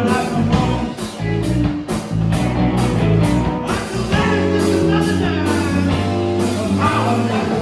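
Blues-rock band playing, electric guitar over a steady rhythm section with regular drum hits.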